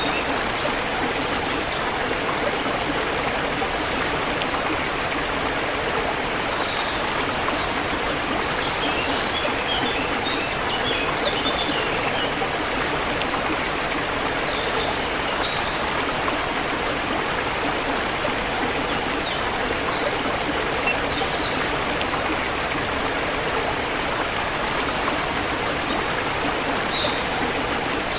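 Forest river flowing steadily over rocks, with scattered short bird chirps above the rushing water.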